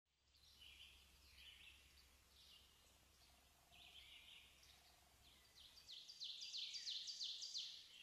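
Faint songbird singing: scattered short chirping phrases, then near the end a louder run of quick, repeated down-slurred notes, about three a second.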